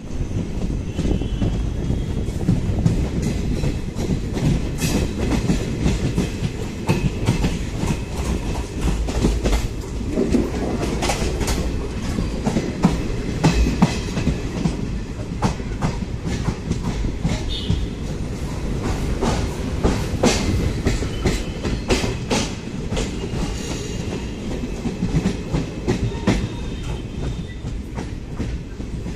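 Hubli–Kochuveli superfast express passenger coach running on the line, heard from its open doorway: a steady low rumble of wheels on rails, with irregular sharp clacks as the wheels cross rail joints.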